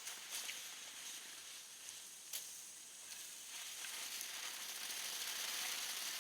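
Small category 1 consumer firework burning with a sizzling hiss that slowly grows louder, with a few sharp crackles, the loudest about two seconds in.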